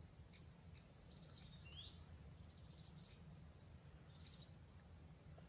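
Faint wild birdsong: a few scattered short chirps and twitters over a low, steady background rumble.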